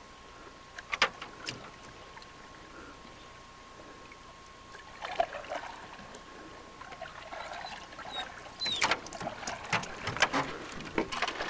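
Canoe paddling: paddles knocking on the hull and splashing in the water, a few knocks about a second in and more frequent strokes and splashes in the last few seconds. A faint steady whine sounds throughout.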